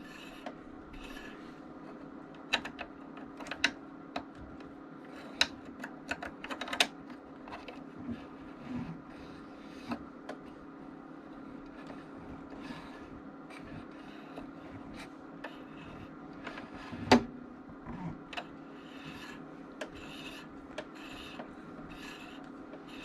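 Singer Confidence sewing machine's freshly oiled mechanism being worked by hand, with light rubbing and scattered sharp clicks over a steady faint hum.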